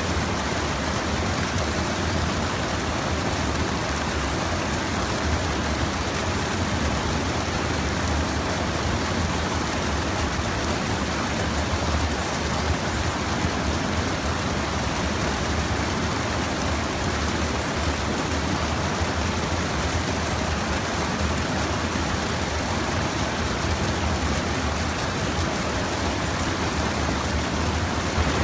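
Steady rush of a stream, water pouring over a small check dam, even and unbroken with a deep low rumble.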